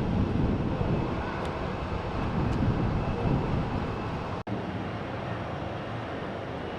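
Jet airliner engine noise, a steady rushing rumble that is a little louder in the first few seconds and cuts out for an instant about four and a half seconds in.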